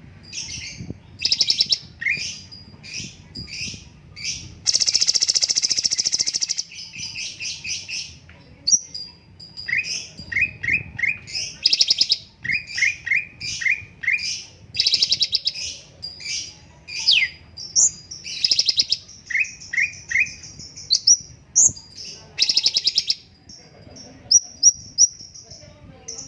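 Cucak cungkok singing a varied, fast song: quick runs of short down-slurred whistles alternate with harsh, buzzy rattling phrases, the longest lasting about two seconds, with a few short high rising whistles near the end.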